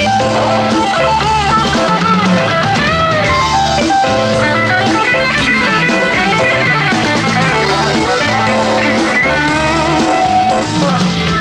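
Rock band playing an instrumental passage of a song: a guitar lead with gliding notes over bass and drums.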